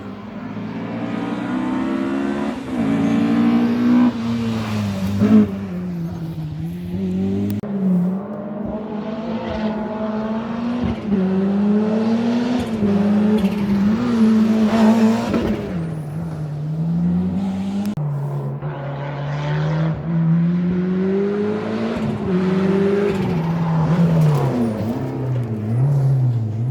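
Historic rally cars at full race pace, one after another: engines revved hard, pitch climbing through the gears and dropping on lift-off and braking. There is a sharp crack about five seconds in, and the engine note changes abruptly twice, as one car gives way to the next.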